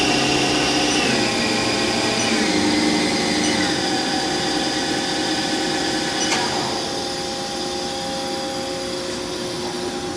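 2005 Haas SL-20 CNC lathe spindle running with a steady whine that steps down in pitch three times in the first four seconds as the speed is backed down from 2500 RPM. A click about six seconds in is followed by a steadier, slightly quieter machine hum.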